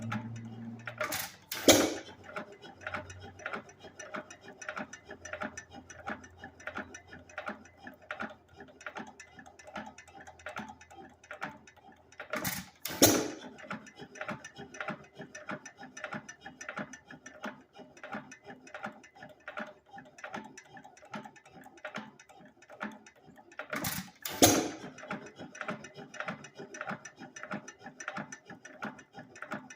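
3 1/2 hp Associated single-cylinder hit-and-miss engine running on its governor: it fires a pair of loud power strokes three times, about eleven seconds apart, and coasts between them with a steady mechanical clicking of its valve gear a few times a second.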